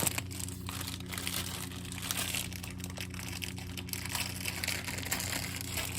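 Plastic packaging crinkling and crackling steadily, with many small ticks, as cauliflower rice is tipped out of its bag into the soup.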